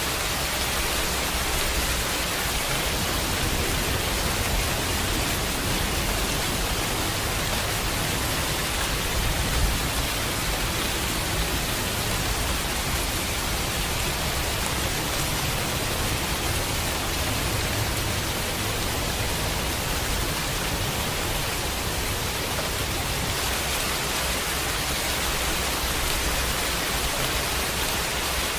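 Steady heavy rain, an even hiss with a low rumble beneath it.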